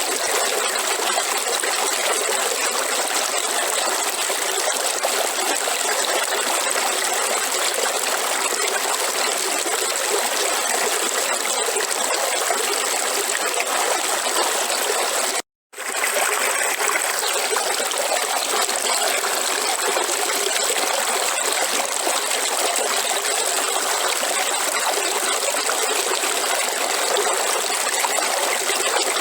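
Waterfall, a steady rush of falling water, that cuts out to silence for a moment about halfway through and then resumes.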